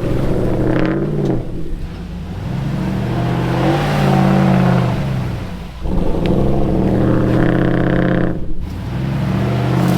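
Off-road vehicle engine revving hard under load, its pitch rising and falling and briefly easing off three times.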